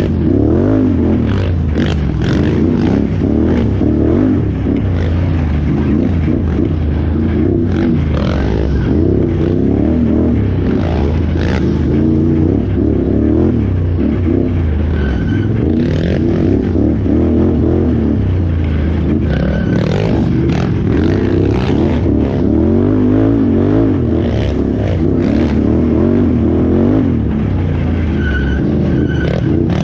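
Can-Am Renegade XXC 1000R ATV's V-twin engine running hard, its revs rising and falling continuously, with scattered knocks and rattles from the machine.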